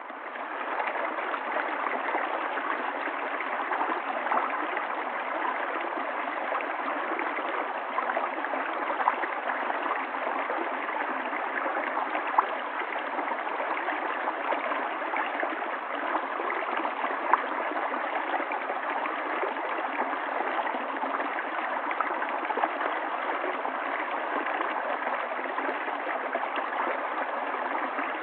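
River water flowing steadily over rocks, a continuous rushing and gurgling with small splashes now and then. It fades in over the first second.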